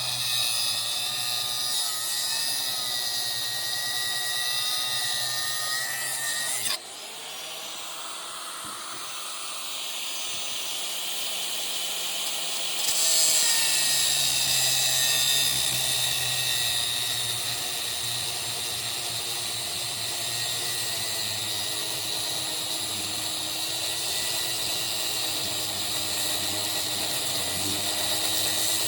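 Angle grinder running and cutting into metal with a steady high whine, the sound changing suddenly about seven seconds in as the load drops, then rising again about six seconds later as the wheel bites back in.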